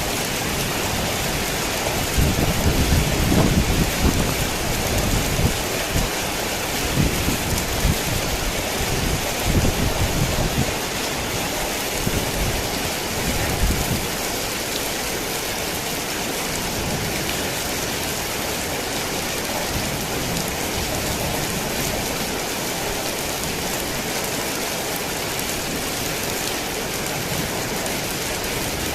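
Heavy rain falling steadily, with low thunder rumbling through the first half, loudest a few seconds in, then dying away to rain alone.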